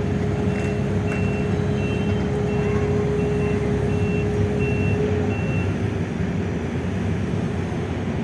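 Heavy-equipment diesel engine running, with a backup alarm beeping about one and a half times a second that stops about five and a half seconds in; a steady whine over the engine ends at about the same time.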